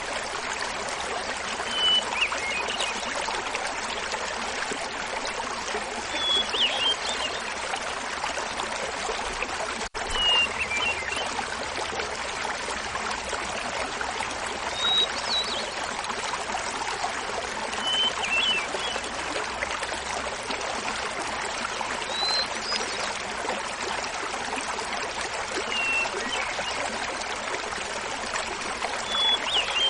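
Small mountain waterfall splashing steadily, with a hermit thrush singing short phrases every three to four seconds, each pitched a little differently. The sound cuts out for a split second about a third of the way through.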